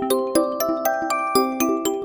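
A OnePlus One ringtone: a bright glockenspiel-like melody of struck, ringing notes, about three to four notes a second.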